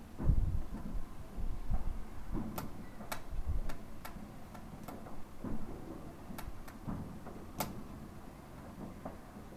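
Distant fireworks going off: scattered sharp cracks, with a few low booms in the first four seconds, the loudest just after the start.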